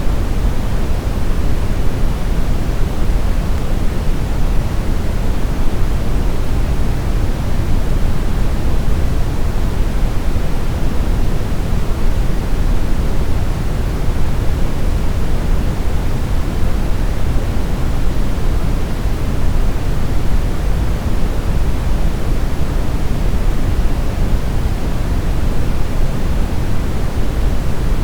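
Steady brown noise: a continuous, even hiss weighted toward a deep low rumble, with no changes or events.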